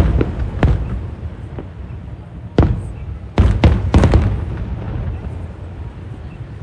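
Aerial fireworks shells bursting. There are a few booms at the start, a single one before halfway, and then a quick cluster of several bursts just after halfway, each trailing off in a low rumbling echo.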